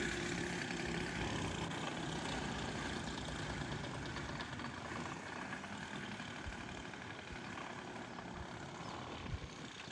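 Small two-stroke weed whacker engine on a friction-drive pedal bike, running and fading gradually.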